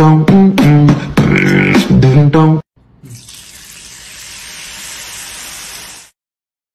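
Background music with a beat and a vocal line that cuts off abruptly about two and a half seconds in. It is followed by about three seconds of a steady hiss like a running water tap, which fades out and stops.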